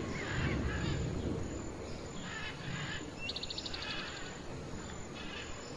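Outdoor ambience of birds chirping over a steady hiss, with a short fast trill a little past three seconds in.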